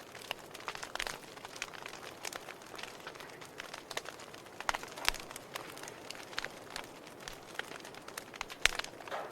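Wood logs burning in a fireplace, crackling with irregular sharp pops over a soft steady hiss; one pop stands out loudest near the end.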